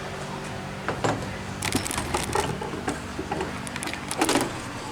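Metal clicks and scrapes from hand work on a small engine's flywheel and magneto: the flywheel is being turned over and handled to check where its magnets rub the armature. The clicks come irregularly, with a steady low hum underneath.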